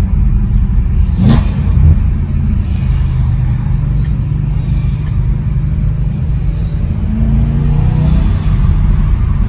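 BMW E92 M3's naturally aspirated V8 with road noise, heard from inside the cabin while cruising: a steady low drone. A single sharp click comes about a second in.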